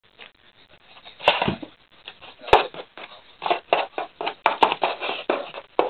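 Cats scrabbling and clawing at a cardboard scratcher in play: irregular bursts of scratching, with two sharp knocks about a second and two and a half seconds in.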